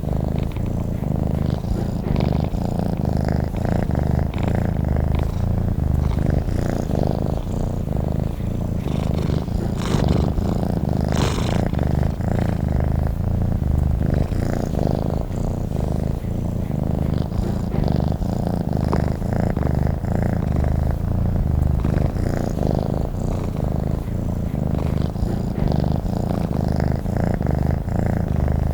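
Domestic cat purring steadily and close, a low pulsing rumble with no pause.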